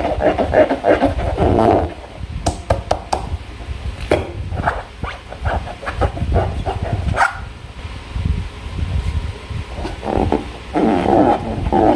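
Slime being worked by hand: irregular sticky squelches, crackles and small clicks, coming in bunches.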